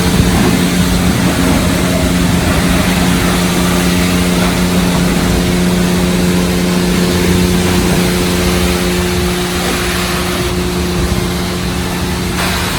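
Automatic car wash's high-pressure pre-rinse running: a steady pump hum under a dense hiss of spraying water, starting suddenly and holding steady.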